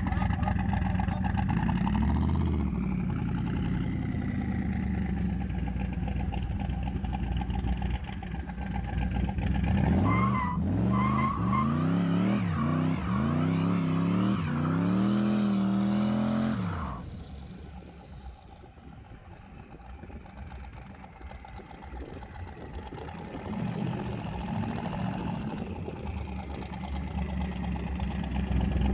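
Car engine running, then accelerating hard from about ten seconds in, its pitch climbing repeatedly in steps, before the engine note drops away sharply around seventeen seconds.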